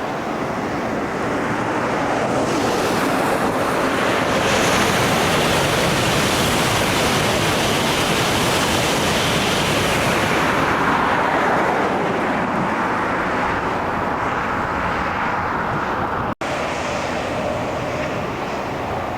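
Shinkansen bullet train passing at high speed: a broad rushing noise that swells over several seconds and falls away with a dropping pitch. The sound breaks off abruptly near the end and a steadier rush follows.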